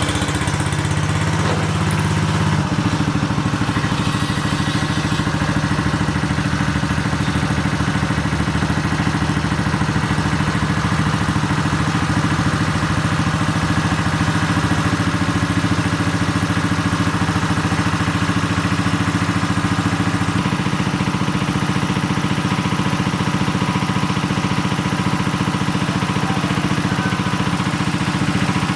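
An engine runs steadily with a clattering mechanical note. It comes up to speed in the first couple of seconds and its tone shifts slightly about twenty seconds in.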